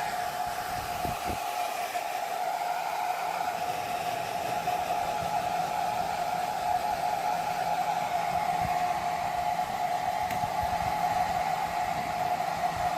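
Hair dryer running steadily: an even airy rush with a held whine, plus a few faint low knocks from handling.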